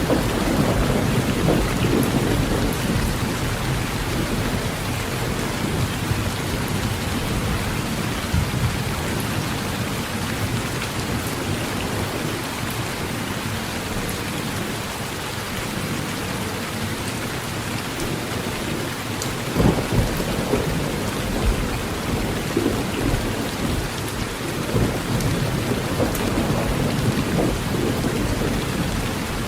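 Heavy rain drumming steadily on a metal roof, with low thunder rumbling, heaviest at the start. A sharper burst of sound comes about two-thirds of the way through.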